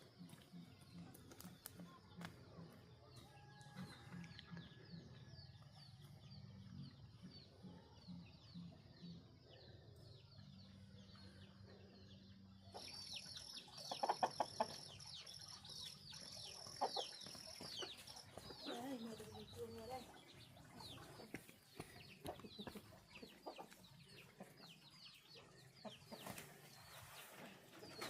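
Chickens clucking on the farm, with many short high chirps throughout and a few louder calls past the middle. A steady high buzz runs for about five seconds around the middle.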